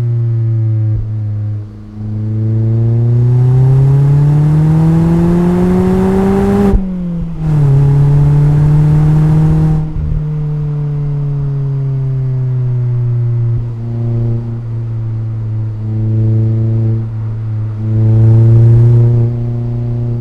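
Mazda MX-5's four-cylinder engine and exhaust while driving: the revs fall off, then climb steadily under acceleration for about five seconds before dropping sharply in a gear change. After that it runs at a steadier pitch, with a few brief rises as the throttle is opened again.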